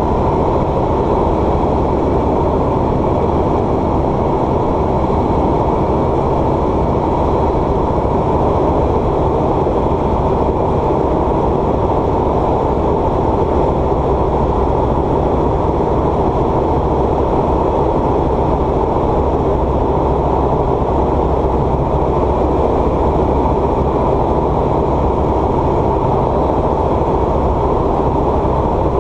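A light aircraft's piston engine and propeller drone steadily, heard inside the cabin.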